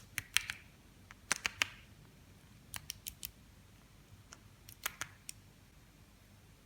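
Sharp, brief clicks and taps coming in small clusters of two to four, from small plastic toy pieces being handled.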